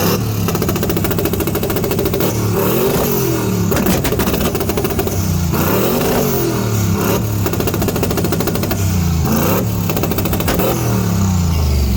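Car engine revving hard in a burnout, its pitch rising and falling several times as the throttle is worked.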